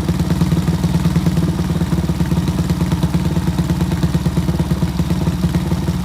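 Honda Monkey motorcycle with a swapped-in HA03E engine idling steadily through an aftermarket exhaust of unknown make, with rapid even exhaust pulses. The exhaust is very noisy, measured at 116 dB indoors.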